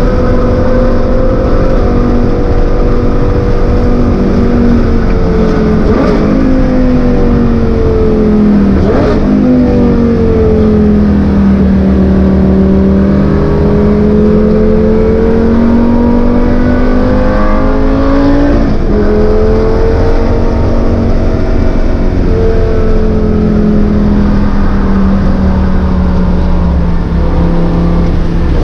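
Lamborghini Gallardo V10 engine heard from inside the cabin while lapping a circuit. The pitch climbs under acceleration and sinks when the car slows, with a few sudden jumps and drops at gear changes, over a low road rumble.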